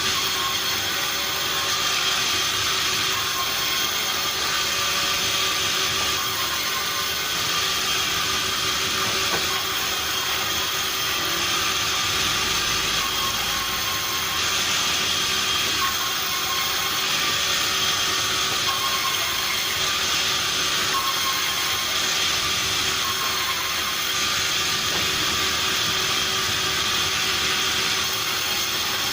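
Sawmill machinery running steadily: a constant mechanical hum and whine over a broad hiss, unchanging throughout.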